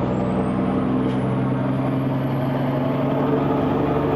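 Kenworth C500 truck's Cummins diesel engine running steadily under way, with a thin high whine that rises in pitch over the first second and a half and then holds steady.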